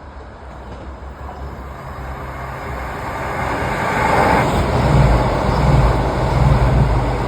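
Two Class 221 Super Voyager diesel-electric trains approaching and passing at speed: a rushing noise that grows steadily louder and peaks about four seconds in, followed by the loud, pulsing low drone of the underfloor diesel engines and wheels as the cars go by.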